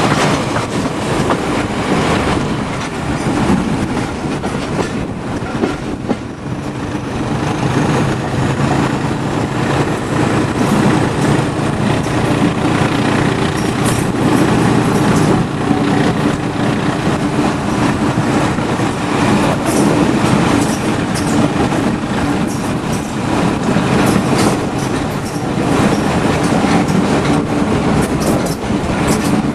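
A train running along the track, its wheels clacking over the rail joints, under a steady diesel engine drone.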